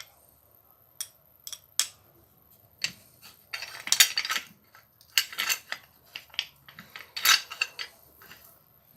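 Parts of a Makita 4½-inch angle grinder being handled during disassembly: a few sharp clicks, then bursts of clattering and scraping about three and a half, five and seven seconds in.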